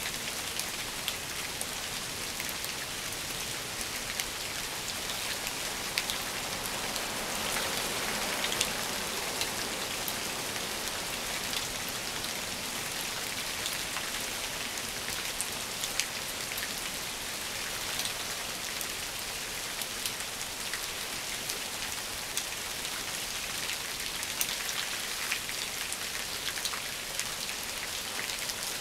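Steady rain falling on bushes and leaf-covered ground: an even hiss with many scattered taps of single drops landing close by.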